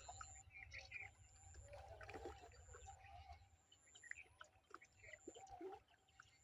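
Faint birdsong: scattered short chirps and calls, with a thin high whistle that comes and goes, over a steady low rumble.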